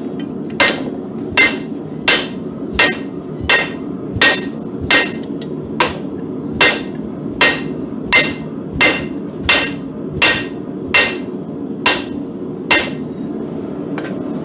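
Hand hammer striking hot mild steel on an anvil, drawing out a hardy shank: about seventeen steady blows, one every 0.7 seconds, each with a short metallic ring, stopping about 13 seconds in. A steady low rushing noise continues underneath.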